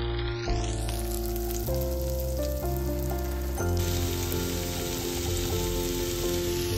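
Sliced onion and squash sizzling in hot oil in a nonstick pot as they are stir-fried with a spatula. Background music with held chords plays underneath.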